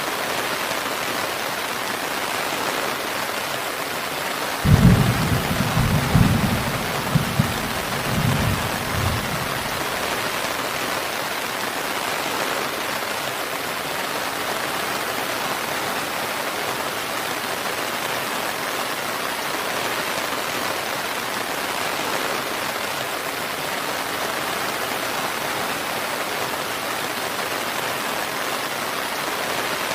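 Steady heavy rain hissing, with a clap of thunder that breaks in suddenly about five seconds in and rolls on in several deep rumbles for about four seconds.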